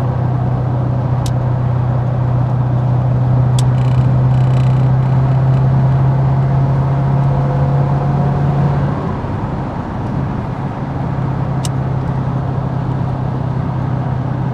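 Twin-turbo V8 of a Callaway C4 Corvette running under way at steady cruise, a low steady drone that builds slightly and then eases off about nine seconds in as the throttle is lifted, with a few faint ticks.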